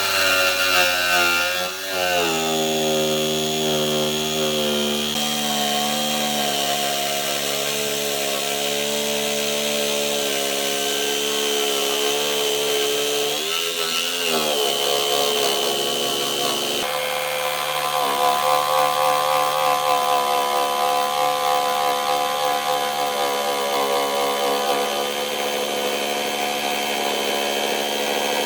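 Electric power tool running steadily while working wood, its motor pitch dipping briefly about halfway through as it takes load.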